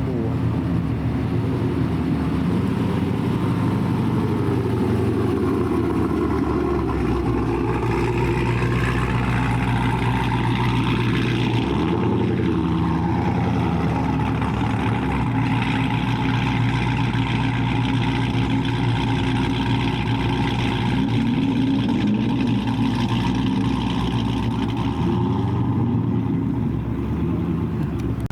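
Car engine running with a steady low rumble, its pitch sweeping around the middle as it changes speed.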